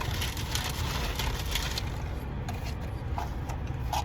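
Paper and cardboard toy-box packaging rustling and crinkling as it is handled, busiest in the first couple of seconds, over a steady low rumble inside the car.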